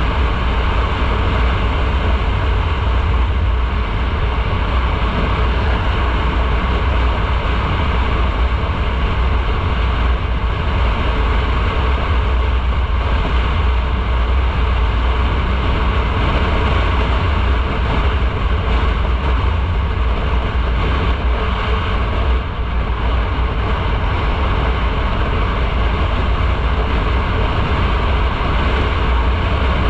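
Motorcycle riding at a steady speed: constant wind rush with a deep low rumble, mixed with engine and road noise. The level dips briefly about three quarters of the way through.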